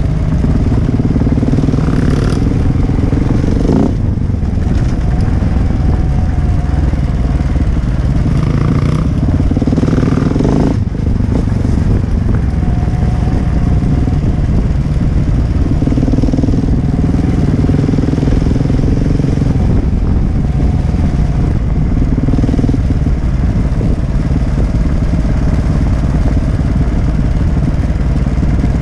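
A KTM 150 EXC two-stroke enduro motorcycle engine running while riding a gravel track, its revs rising and falling. Two sharp knocks, about four seconds in and again near eleven seconds, stand out against it.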